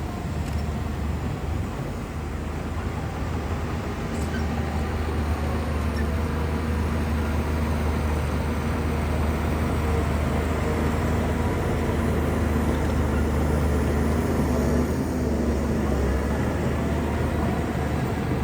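Large bulldozer's diesel engine running steadily under load, a deep drone that grows a little louder about four seconds in.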